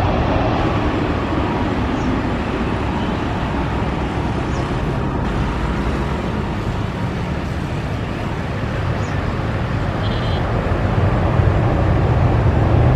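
Jet airliner engines during a landing: a steady rushing noise that eases a little in the middle and builds again toward the end.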